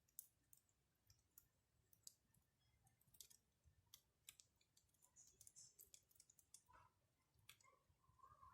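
Faint, irregular crackling and popping of a wood campfire, a sharp crackle every half second or so.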